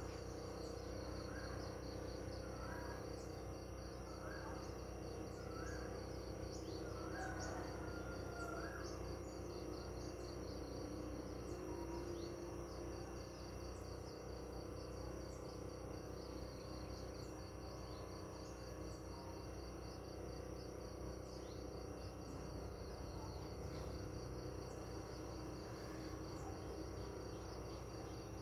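Countryside ambience of crickets or similar insects trilling steadily at a high pitch. During the first nine seconds or so a bird repeats a short call about once a second.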